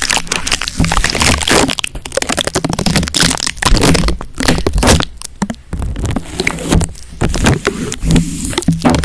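ASMR sticky sounds: a sticky surface being worked right at the microphone, giving dense, irregular crackling and popping clicks.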